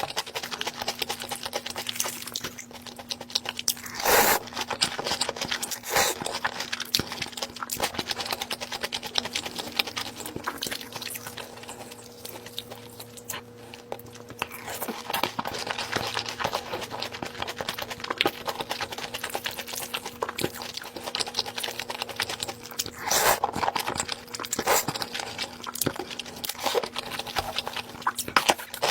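Close-up eating sounds: a person chewing and crunching food, with many small wet clicks and louder bursts about four seconds in and again near twenty-three seconds.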